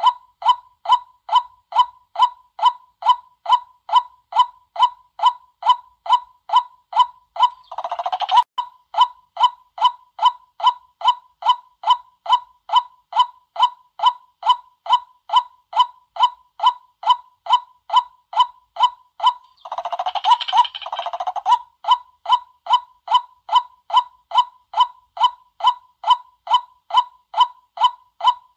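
White-breasted waterhen calling, a lure-call recording: one short note repeated evenly about twice a second, broken twice by longer, rougher calls, about eight seconds in and again near twenty seconds.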